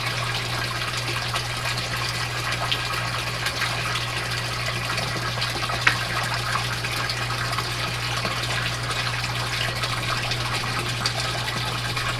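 Water pouring and splashing steadily over a low, even pump hum: an aquaponics system's water pump running and its flow returning to the tank. One sharp click about six seconds in.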